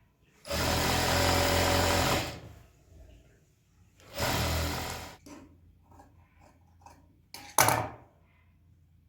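Sewing machine stitching in short runs: one of nearly two seconds, a shorter one of about a second, and a brief burst near the end, with pauses between.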